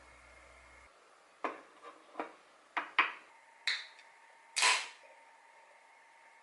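A run of about seven short, sharp clicks and knocks spread over roughly three and a half seconds. The last one is the longest and loudest.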